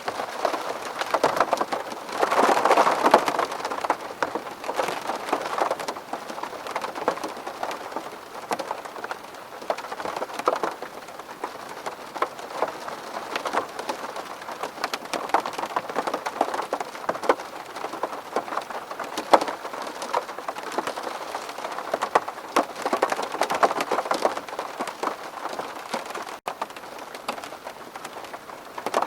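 Rain pattering on a window pane: a dense, even spatter of drops, swelling heavier about two seconds in and again near the end.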